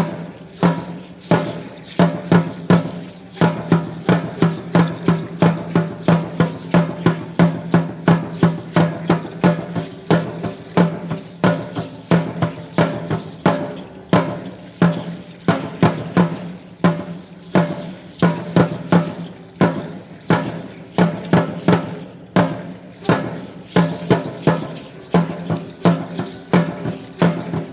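Aztec dance drumming: a large drum, in this tradition the huehuetl, struck in a fast, even rhythm for a dance son.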